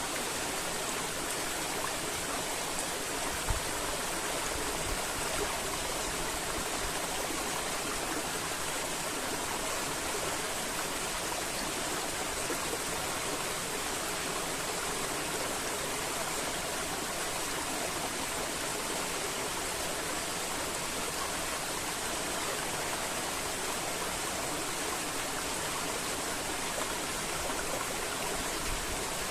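River water flowing and rushing steadily, an even unbroken wash of water noise, with one brief low thump a few seconds in.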